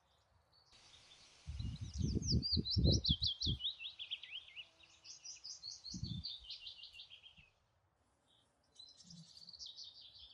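A songbird singing a long, rapid phrase of chirping and warbling notes, then a shorter phrase near the end. Several low thumps come under the first part of the song, and one more about six seconds in.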